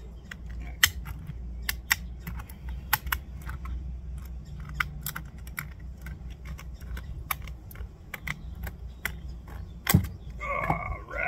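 Thin metal shim stock being handled after cutting: irregular light metallic clicks and taps, with a louder clack about ten seconds in followed by a brief metallic ring.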